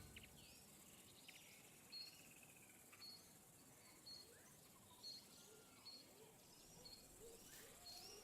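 Faint outdoor ambience with a bird giving short high chirps about once a second, and a few other faint whistled bird calls over it.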